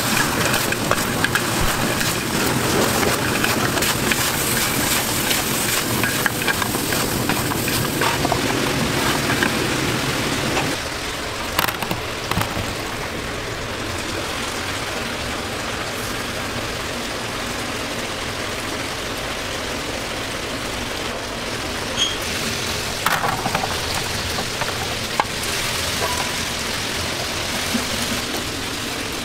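Fried chicken pieces sizzling in a hot oiled wok as they are stirred and tossed with spatulas. About ten seconds in, the sound suddenly drops to a quieter steady hiss with a few scattered clicks.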